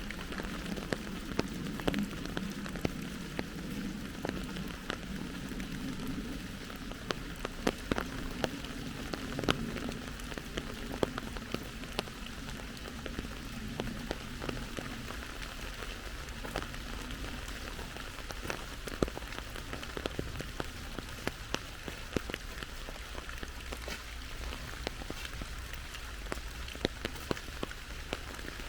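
Steady rain falling, with many sharp individual drops landing close by. A low rumble underneath fades out about halfway through.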